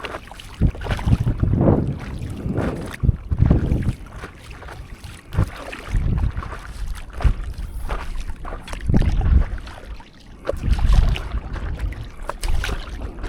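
Sea water splashing and sloshing around a stand-up paddleboard in uneven surges every second or two, with wind buffeting the microphone.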